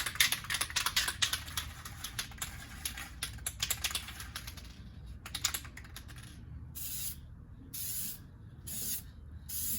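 Aerosol spray paint can rattling with rapid clicks, then a series of short spray bursts hissing about a second apart.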